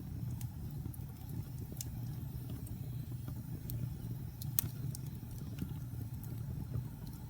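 Wood fire in a fireplace crackling, with irregular sharp pops over a steady low rumble of the flames. The loudest pop comes about four and a half seconds in.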